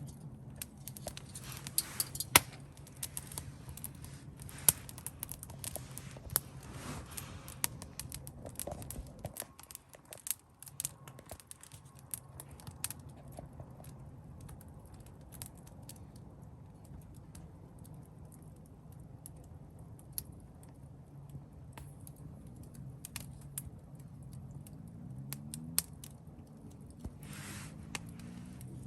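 Wood campfire crackling: irregular sharp pops and snaps, busiest in the first ten seconds and sparser after, over a low steady hum.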